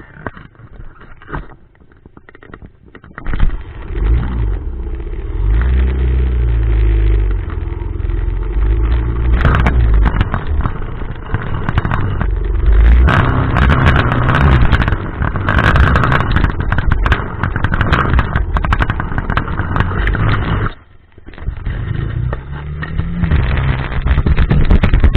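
Dirt bike engine running hard under riding, with many sharp clicks and knocks over it. It comes in loud about three seconds in, drops away briefly near the end, then revs back up with a rising pitch.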